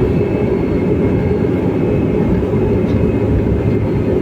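Urban rail train running at steady speed: a continuous rumble of the car with a few faint steady whines above it.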